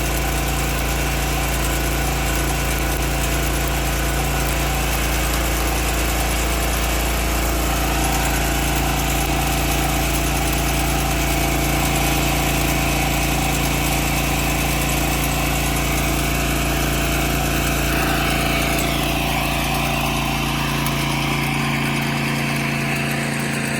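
An engine running steadily at idle, a constant low hum with steady tones above it; the deepest part of the hum fades away near the end.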